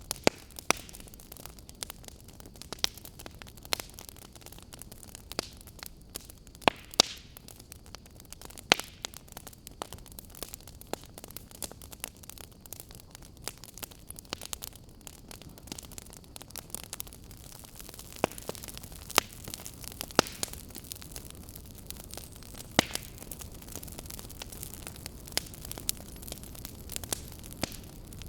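Wood fire burning in a fireplace: irregular sharp crackles and pops over a steady low hiss.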